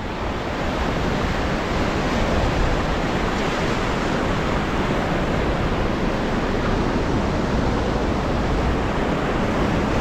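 Steady rush of Ganges river whitewater around a raft, an even hiss of churning water.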